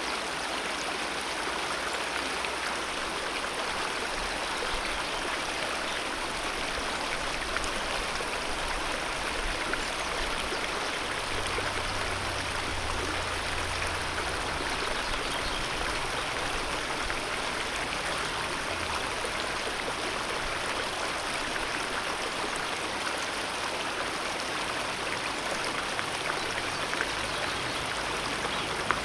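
Alpine mountain river rushing steadily over rocks, a constant even stream noise with small splashes and gurgles.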